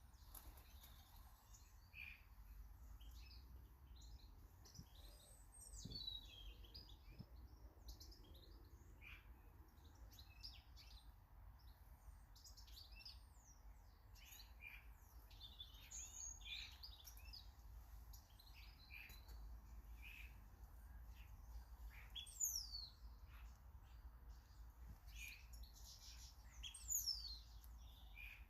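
Faint garden birdsong: many short chirps and twitters from several small birds, with two louder falling whistled notes about two-thirds of the way in and near the end, over a low steady rumble.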